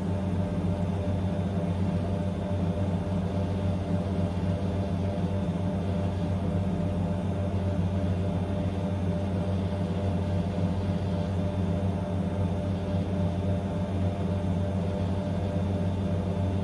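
Blomberg WA391 front-loading washing machine spinning its drum at high speed, a loud steady drone with a deep hum and steady tones above it that do not change.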